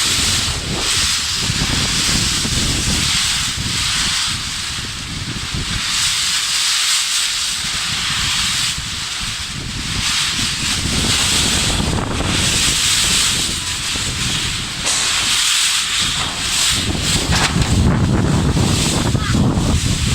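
Strong tropical-storm wind blowing in gusts, a loud rushing hiss with heavy low buffeting on the microphone that rises and falls and is strongest near the end.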